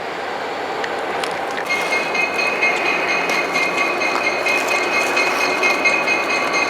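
A train rolling past, a steady rumble of wheels on rail that slowly grows louder. About two seconds in, a steady high-pitched squeal from the wheels sets in and holds.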